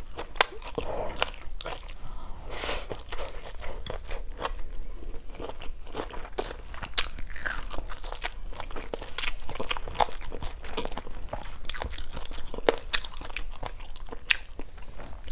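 Close-miked chewing: a mouth biting and crunching crisp stir-fried vegetables, with many short irregular crunches and small wet mouth clicks.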